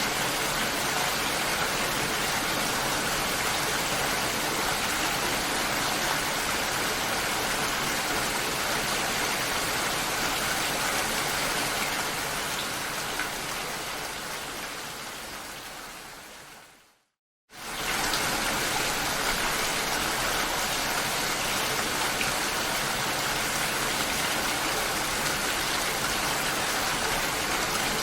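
Steady rain, an even hiss, fades out over a few seconds to a brief moment of silence about two-thirds of the way in. It then cuts straight back in at full level, the join between two passes of the rain recording.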